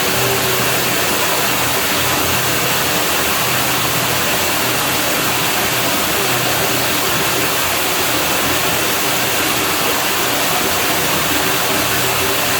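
Steady rush of water at a pool villa, a continuous even hiss with a faint steady hum underneath.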